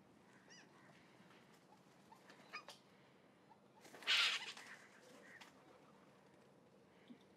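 Birds calling in the trees: a few short chirps and whistled notes, then one loud, harsh, hissing burst about four seconds in.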